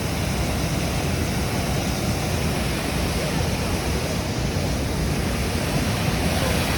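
Creek water pouring over a low-head dam, a steady rush of falling water with no pause or change.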